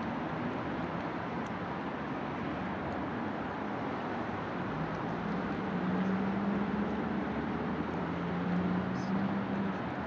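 Steady outdoor noise of distant city traffic, with a low engine-like drone that grows stronger about halfway through.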